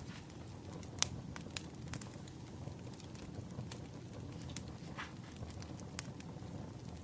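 Wood fire crackling, with irregular sharp pops over a steady low rush; the loudest pop comes about a second in.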